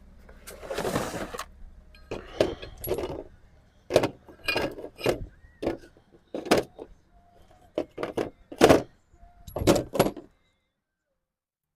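Metal tools and engine parts being handled, with about a dozen sharp clinks and knocks at uneven intervals. The sound cuts to silence about ten seconds in.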